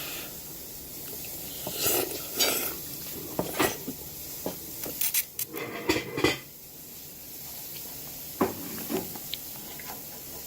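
Dishes and cutlery clinking and knocking at a meal, a dozen or so short scattered clinks over a steady faint hiss.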